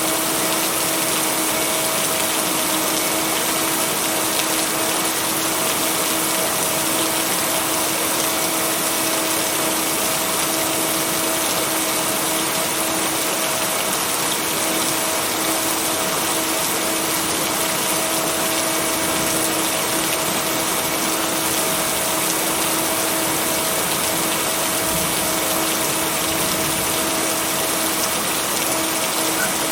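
Steady heavy rain, an even hiss with no let-up, blended with a steady low hum of two held tones from added binaural beats.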